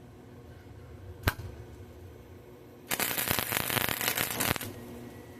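A sharp click about a second in, then an electric welding arc crackling and spitting for about a second and a half before it stops suddenly: a short weld on thin pipe, with the welder turned down to its minimum setting.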